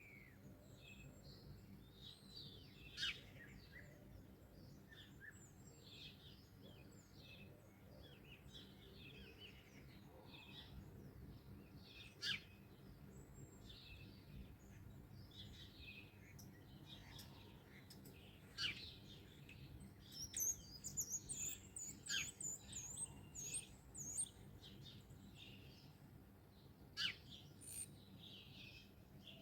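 Several songbirds calling and singing in a morning chorus, with many short high chirps and a few sharp, louder calls. A rapid, high twittering song runs for a few seconds past the middle.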